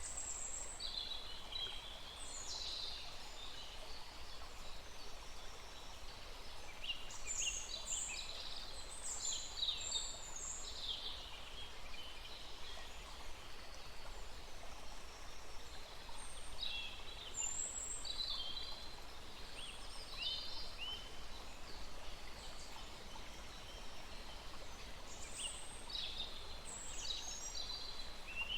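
Several songbirds chirping and singing in short, high phrases, over the steady faint rush of a small stream.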